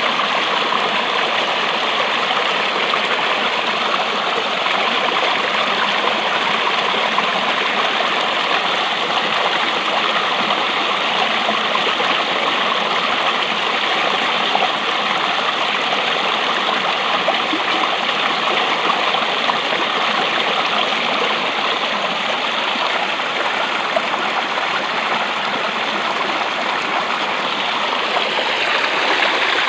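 Running water rushing steadily, loud and unbroken.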